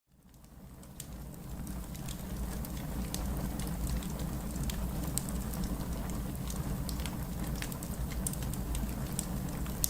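Crackling wood fire, with irregular sharp pops and snaps, over a steady bed of heavy rain noise. The sound rises from silence at the start and reaches full level after about three seconds.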